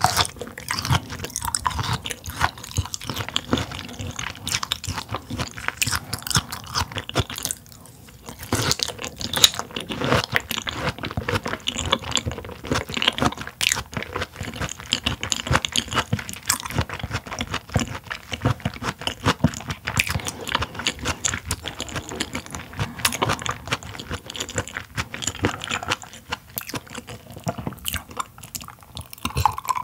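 Close-miked chewing of raw mullet gizzard in sesame oil: wet, crunchy chewing clicks one after another, with a short pause about a third of the way in. Near the end comes a drink from a glass of iced water.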